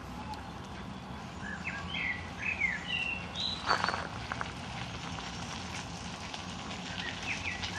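Small birds chirping in short, high calls: a run of them in the first half and a couple more near the end, over a steady low hum. A single click about four seconds in.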